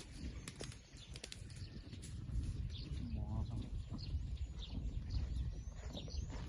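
Small birds chirping in short, high-pitched calls, repeated many times from about halfway on, with one brief wavering coo about three seconds in, over a steady low rumble.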